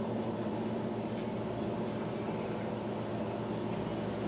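A steady mechanical hum with a few faint light clicks in it.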